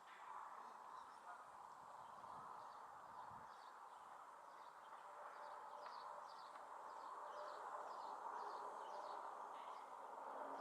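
Faint small-bird chirps, short high calls repeated over several seconds, over a steady faint rushing background that grows a little louder near the end.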